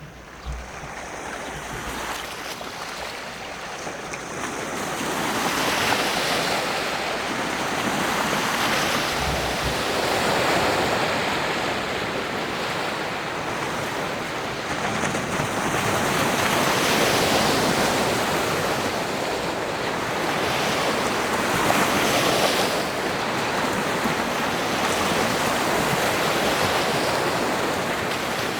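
Water waves washing, a steady hiss that builds over the first few seconds and then holds, rising and falling in slow swells.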